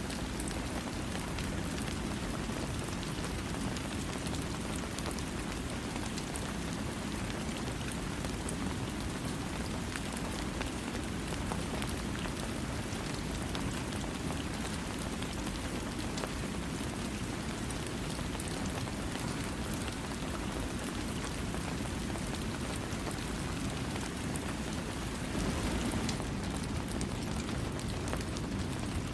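Steady rain falling, a dense even hiss of drops pattering on a surface, with no thunder. It swells slightly louder near the end.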